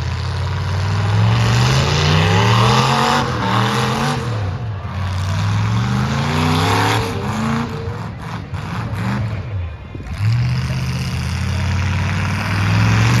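Demolition derby truck engines revving hard, their pitch climbing and dropping again and again as they accelerate and back off, with a few sharp knocks about eight to nine seconds in.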